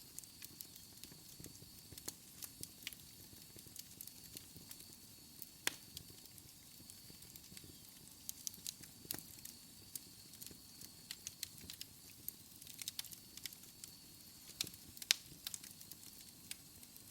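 Wood fire in a fireplace crackling, with irregular snaps and pops over a faint low rush; a few pops, about six seconds in and near the end, are sharper than the rest.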